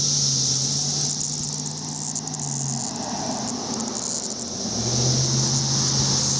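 Chorus of periodical cicadas singing, a steady high-pitched drone that eases for a few seconds in the middle and then swells again. A low steady hum drops out about three seconds in and comes back near the end.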